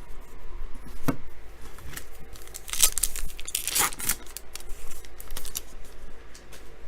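A trading card pack wrapper being torn open and crinkled by hand, with a click about a second in and two loud ripping rasps near the middle.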